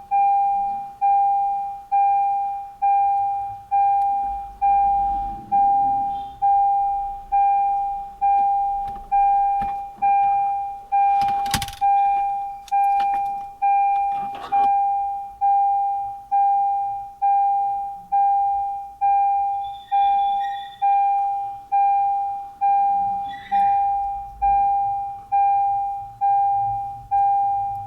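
Toyota Veloz's dashboard warning chime dinging on one steady note, about once a second without a break. A couple of sharp clicks come near the middle.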